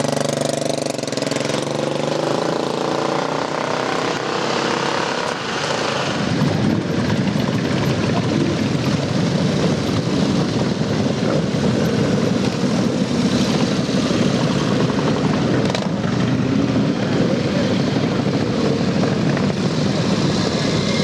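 A vintage motorcycle engine being run up: an even-pitched engine note for the first few seconds, then a louder, rougher, lower running sound from about six seconds in.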